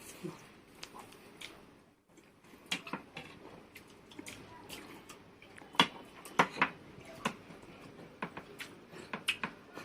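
Eating at a table during a timed eating contest: scattered short, sharp clicks and taps, a few louder ones around six to seven seconds in.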